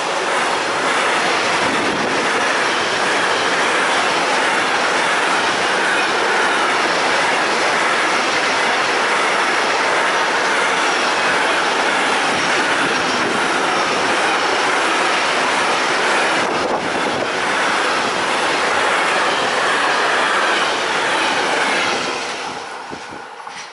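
An intermodal freight train, hauled by two electric locomotives with wagons carrying truck semitrailers, passing close by at speed: a loud, steady rush of steel wheels on rails. It fades in the last couple of seconds as the end of the train goes by.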